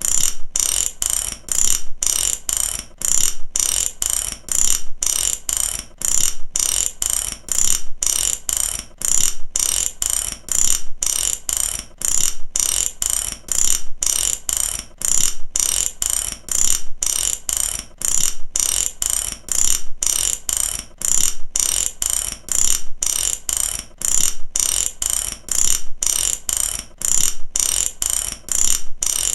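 Ratchet clicking rapidly and high-pitched, in bursts that repeat about once a second without a break, as the ratchet is worked back and forth.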